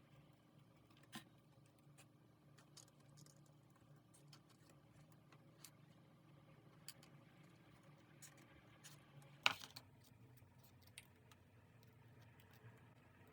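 Near-silent room tone with scattered faint small clicks and taps of things handled on a desk, and one sharper tap about nine and a half seconds in.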